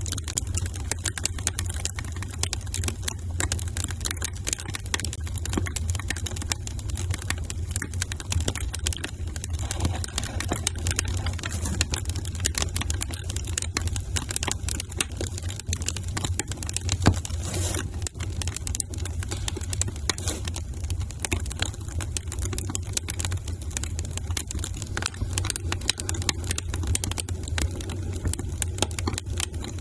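Wood fire crackling in a fireplace: a constant stream of small snaps and pops over a low steady rumble, with one louder pop a little past halfway.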